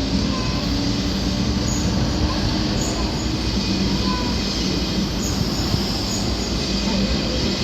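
Railjet passenger train rolling out of the station: a steady rumble of wheels on rail with a low hum from the drive and occasional faint squeaks.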